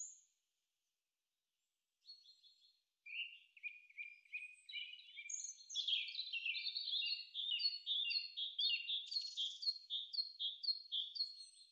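Bird-like chirping: many short, high chirps that start about two seconds in after a silence and grow denser and overlap, with no other sound beneath them.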